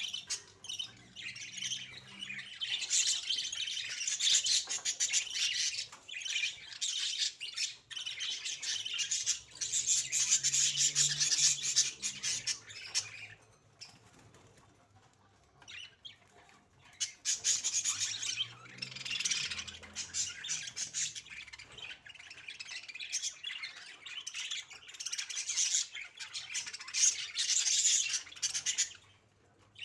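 Budgerigars chattering in long stretches, with a pause of about two seconds midway and a brief one near the end.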